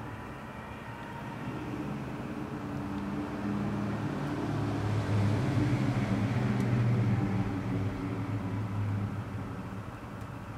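Large microwave oven running with a steady electrical hum. The hum grows louder through the middle and eases off near the end.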